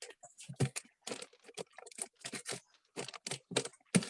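Paper being handled: an irregular run of short crackles and taps as the sheet is folded and crinkled.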